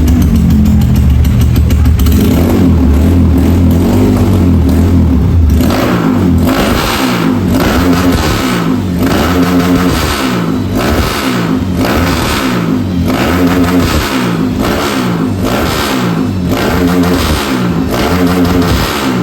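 Bored-up single-cylinder four-stroke dirt bike engine, loud and running at a steady low speed for about five seconds, then revved in repeated quick throttle blips about once a second.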